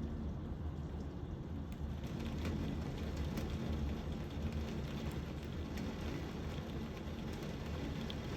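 Hard summer rain falling in a steady downpour, a constant hiss with many individual drops ticking through it.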